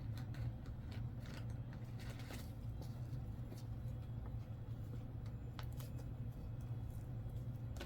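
Faint, scattered light clicks and rustles of coins being handled, over a steady low hum.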